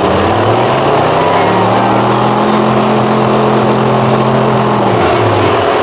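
Truck engine revving up, held at high revs for about three seconds, then dropping back near the end.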